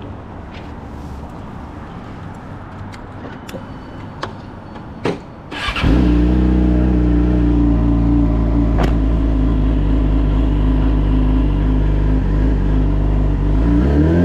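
A few sharp clicks over a low rumble, then a Yamaha R6's inline-four engine starts about six seconds in and settles into a steady idle. Near the end the revs rise in a short throttle blip.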